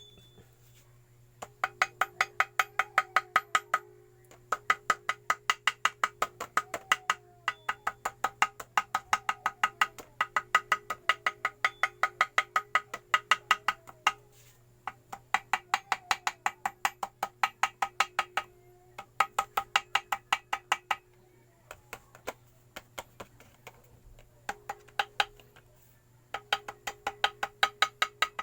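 Small hammer tapping rapidly and evenly on gasket material laid over a metal engine part, about six or seven taps a second, in runs of a few seconds with short pauses. This is the usual way a homemade gasket is cut out, by tapping the sheet against the part's edges.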